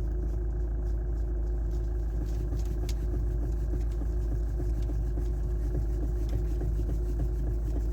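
Hyundai Santa Fe idling while the steering wheel is turned, with a distinct knocking in the steering: the sign of a failed electric power steering coupling.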